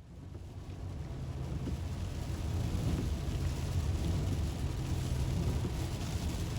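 Steady low rumble with a hiss over it, typical of a car driving along a road, fading in over the first couple of seconds.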